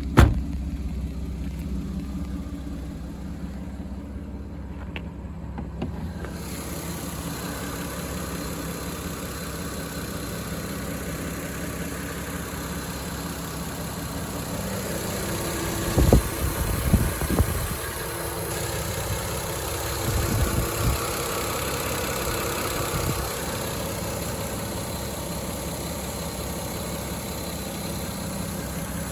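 Toyota Supra 2JZ-GTE twin-turbo inline-six idling steadily. There is a sharp click right at the start, the engine sound turns brighter and fuller about six seconds in, and a few low knocks come around the middle.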